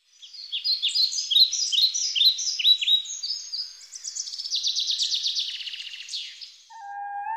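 Birdsong: a bird singing a string of quick, high chirping phrases, with a fast trill about halfway through. A soft held music note comes in near the end.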